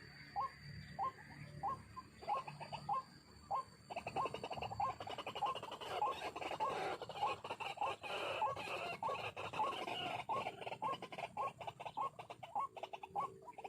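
White-breasted waterhen (ruak-ruak) calling over and over in short notes, about two a second, which crowd into a dense overlapping chorus from about four seconds in.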